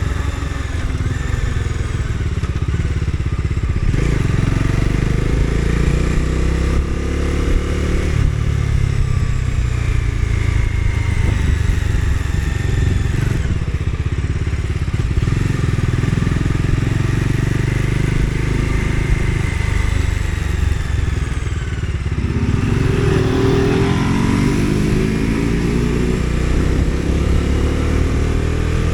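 Bajaj Dominar 250's single-cylinder engine pulling the bike along, its pitch rising and breaking off as it goes through the gears, over steady wind and road rumble. About three-quarters of the way through the revs drop, then climb steadily again.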